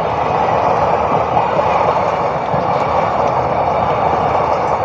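Passenger train running on the rails, heard from on board: a loud, steady wheel-and-rail noise.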